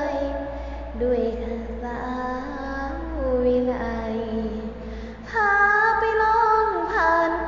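A high voice singing a slow Thai song in long held notes that slide between pitches, over a steady low hum. The singing gets louder from about five seconds in.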